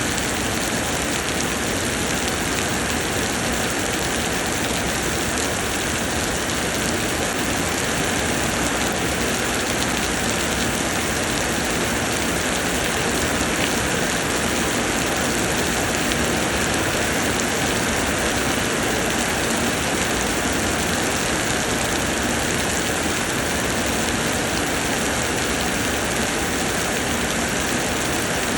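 Summer rain pouring steadily, an even continuous hiss of rain with faint scattered drop ticks.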